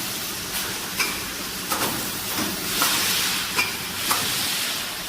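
Fully automatic screen printing machine for wine bottles running, a steady hiss under about six sharp mechanical clicks and clacks at uneven intervals.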